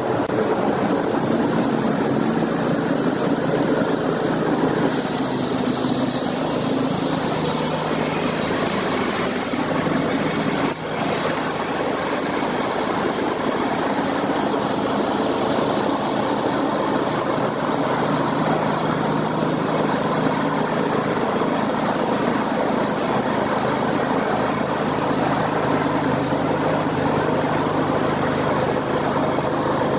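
An engine running steadily, a constant hum under dense mechanical noise, with a brief dip about eleven seconds in.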